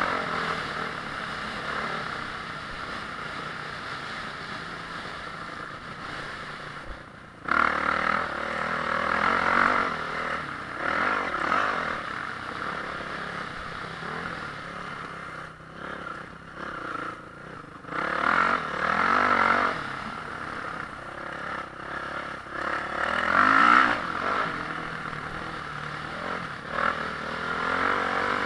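Honda CRF450R's single-cylinder four-stroke engine at race pace, the throttle opening and closing in repeated surges, with rattling and scraping along with it. A sudden loud surge comes about a third of the way in, and more come later.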